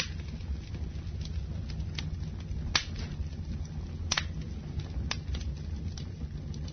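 Campfire crackling: a steady low rumble of burning wood with scattered sharp pops, the loudest about three seconds in and just after four seconds.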